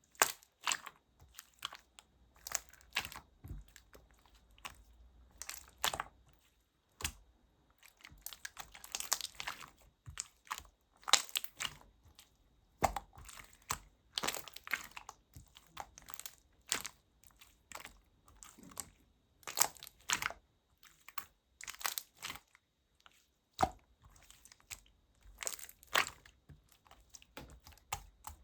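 Jelly-textured slime being squished and pressed by hand, giving irregular sticky crackles and pops, about one or two a second.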